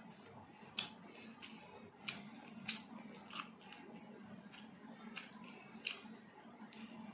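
A person chewing roti and chilli chicken close to the microphone, with sharp wet mouth clicks and smacks about every two-thirds of a second over a low steady hum.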